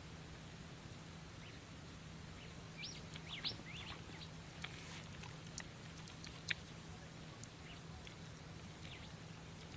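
A few quick, high bird chirps sweeping up and down about three seconds in, followed by scattered sharp ticks, over a faint steady low hum.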